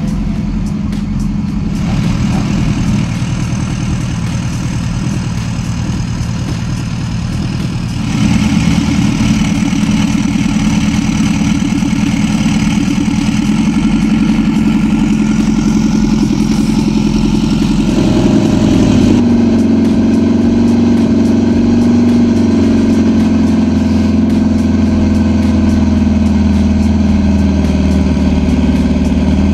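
Honda Civic hatchback drag car's engine running at idle, its exhaust leaving through pipes in the hood; the sound steps up in level about a third of the way in and again a little past halfway.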